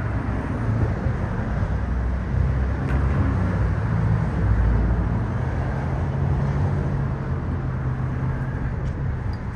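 Steady low rumble of a running motor vehicle, a continuous hum without breaks.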